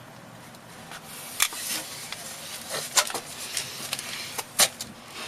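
Sharp clicks and knocks of boards and tools being handled during carpentry, three louder knocks about a second and a half apart, over a faint low hum.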